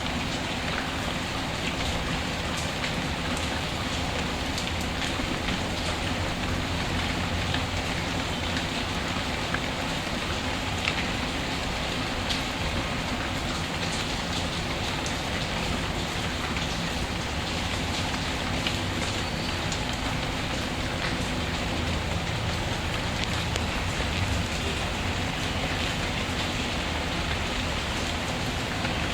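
Steady rain falling, with scattered small crackles and pops from a wood fire in a fireplace.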